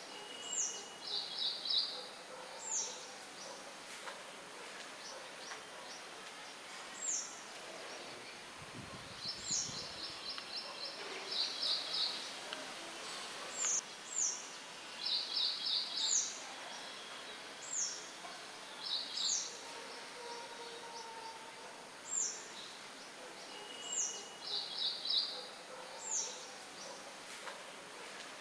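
Songbirds chirping: short high calls that sweep downward, repeated every second or two, mixed with brief rapid trills, over a steady hiss of wind. A short low rumble comes about nine seconds in.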